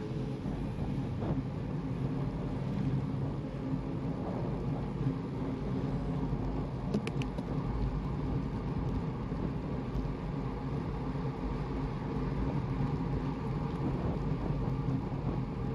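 Steady low rumble of wind buffeting and road noise from moving along the road, with a few brief high clicks about seven seconds in.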